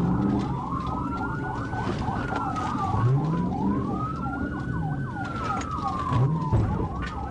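Police siren wailing in slow rise-and-fall cycles about every three seconds, with a faster yelping siren sweep layered over it, over the rumble of the pursuing cruiser's engine and road noise.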